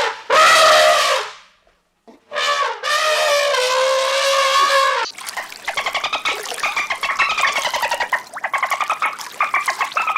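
An animal calling loudly several times: short cries at first, a long held call a few seconds in, then a fast, trembling call in the second half.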